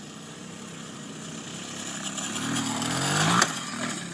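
Small motorcycle engine revving, its pitch and loudness rising for about a second, then dropping away after a sharp knock about three and a half seconds in.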